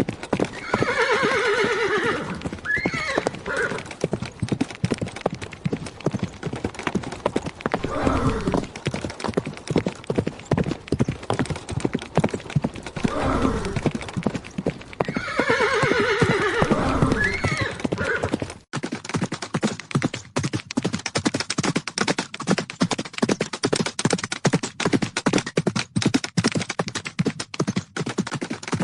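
Horses' hooves galloping in a fast, continuous patter of hoofbeats, with a horse whinnying near the start and again about halfway through. About two-thirds in the recording changes, and the hoofbeats go on with less low rumble.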